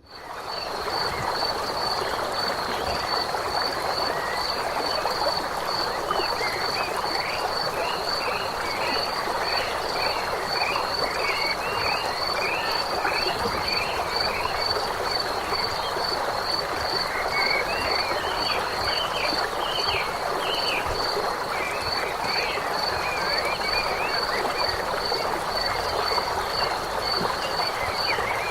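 A dense chorus of frogs croaking, with a steady high-pitched pulsed call repeating about twice a second over it and two bouts of short chirping calls.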